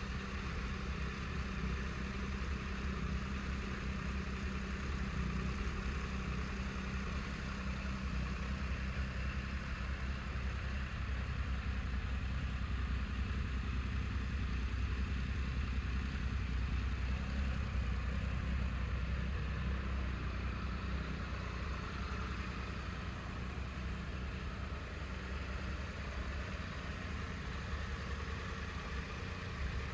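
Triumph Tiger 1200's three-cylinder engine idling steadily.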